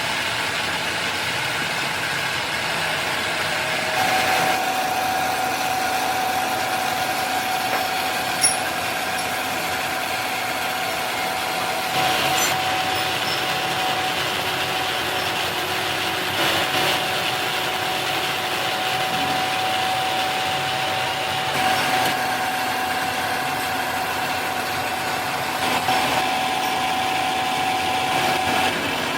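Factory machinery running steadily, with a held whine and brief louder surges every few seconds.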